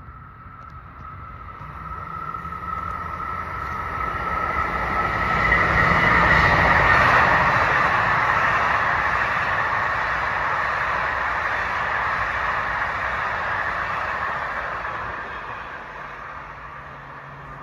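Ten-car LIRR Budd M3 electric multiple-unit train passing. It swells to its loudest about six seconds in, runs steady for several seconds, then fades away. A steady high whine is heard as it approaches.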